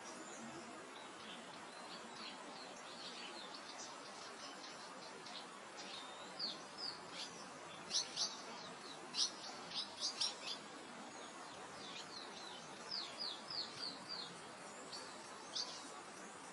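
Small songbirds chirping with many short, quick high notes, busiest and loudest in the middle, over a steady soft rush of wind through grass.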